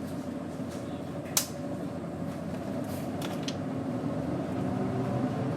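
Doosan GE12Ti turbocharged natural-gas engine of a Daewoo BS110CN bus running steadily, growing slightly louder near the end. A sharp click about a second and a half in and a few light rattles around three seconds.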